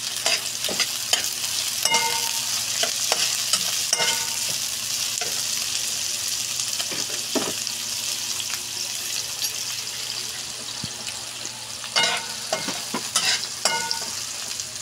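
Shallots, ginger and green chilies sizzling in hot oil in a wok as they are sautéed, a steady frying hiss. A metal spatula scrapes and clinks against the pan a few times, most in a cluster near the end.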